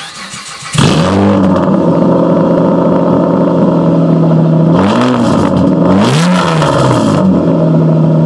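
2006 Mitsubishi Eclipse GT's 3.8-litre V6 cranked on the starter, catching within a second with a flare and settling to a loud idle, blipped twice about five and six seconds in. It runs on essentially open straight pipes: the muffler internals have blown out and the tailpipe restrictor is removed.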